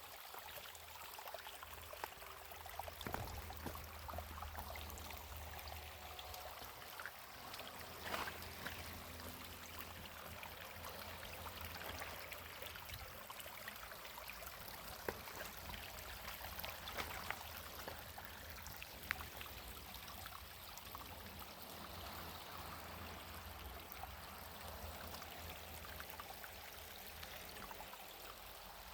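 Running water, a steady babbling haze with scattered small splashes and clicks, over a low rumble.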